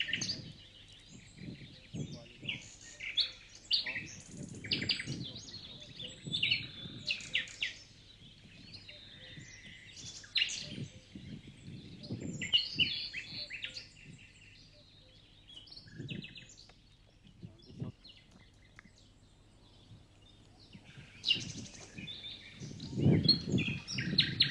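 Birds chirping and trilling in quick, high-pitched phrases, pausing for a few seconds past the middle, over low rustles and thumps, the loudest a low rumble a little before the end.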